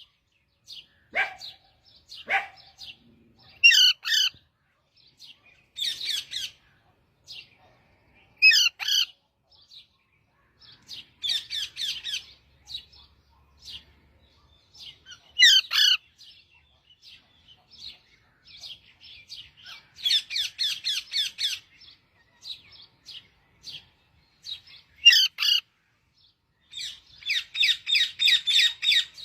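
A parrot calling in short, high-pitched chirping phrases every couple of seconds, with two longer runs of rapid chatter in the second half.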